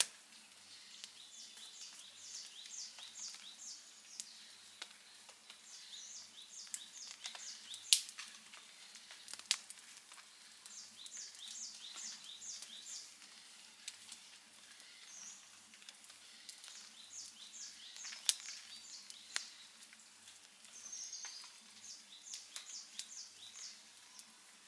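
Outdoor campfire crackling, with sharp pops about eight seconds in and again around eighteen seconds. A bird sings a repeated phrase of short, high notes every few seconds.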